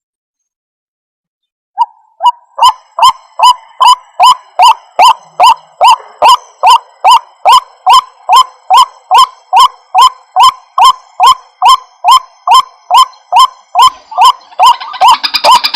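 White-breasted waterhen lure-call recording: a rapid, even series of short hoarse notes, about three a second, starting about two seconds in after a silence. Near the end a denser, harsher layer of calls joins in.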